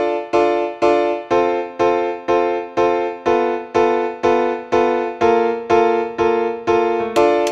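Background music: a piano-like keyboard playing repeated chords, about two a second, each one fading away before the next.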